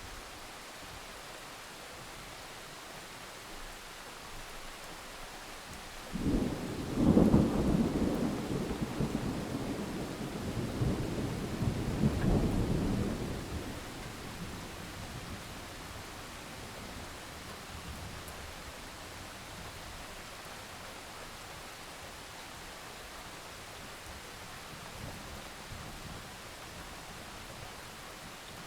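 Thunderstorm: steady rain hiss, with a peal of thunder that breaks suddenly about six seconds in and rumbles with a second swell before dying away about eight seconds later. Fainter distant rumbles come later.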